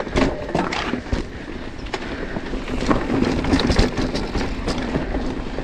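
Mountain bike chain slapping and clattering against the frame on rough trail, many irregular knocks over tyre and wind noise: the rear derailleur's clutch is switched off, so the chain is not held taut.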